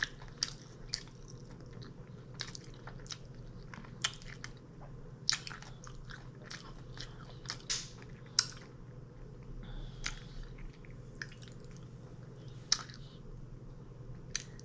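A person chewing and biting food up close: irregular crunches and mouth clicks, with a steady low hum underneath.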